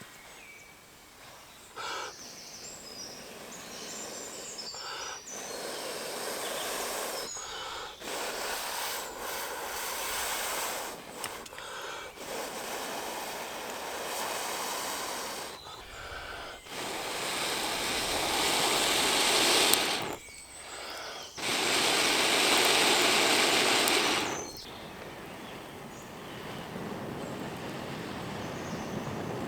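A person blowing on a smouldering ember in a tinder bundle to bring it to flame: a series of long breaths with short pauses, growing stronger, the two longest and loudest in the second half.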